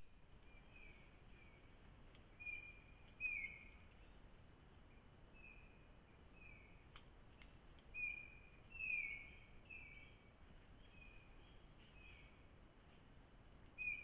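A bird calling over and over with short, slightly falling notes, one or two a second, louder a few times, over a faint steady hiss of forest background.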